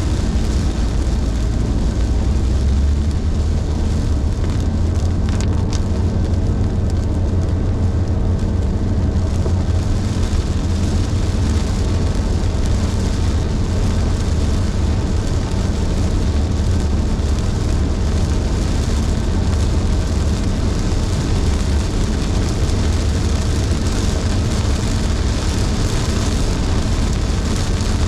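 Car driving in heavy rain: a steady low road rumble with the hiss of tyres on the wet road and rain. The hiss grows louder about a third of the way in.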